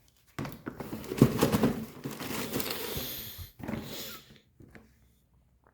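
Rustling and rubbing handling noise from the running shoe being handled close to the microphone, lasting about three seconds, then a shorter second bout.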